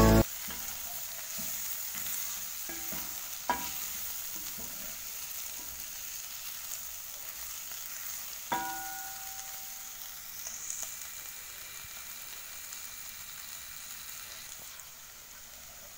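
Diced liver and vegetables sizzling in a cooking pot as they are stirred, with a steady frying hiss. The stirring utensil knocks against the pot twice, each knock ringing briefly.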